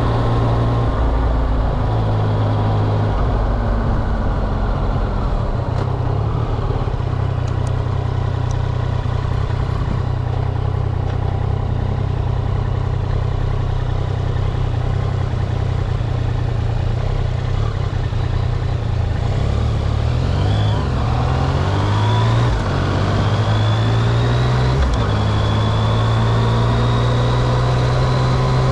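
Yamaha XSR900's three-cylinder engine running, heard from on the bike: a steady, even note at first, then over the last third the pitch rises and falls several times as the bike accelerates and shifts gears.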